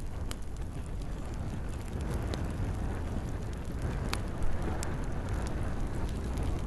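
Campfire burning with scattered sharp crackles and pops over a steady low rumble, one louder pop about four seconds in.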